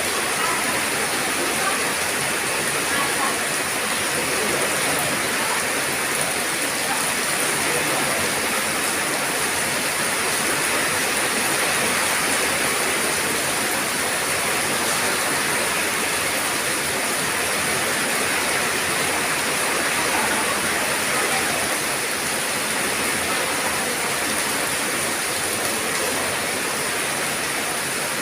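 Steady rain falling: a constant, even hiss of raindrops.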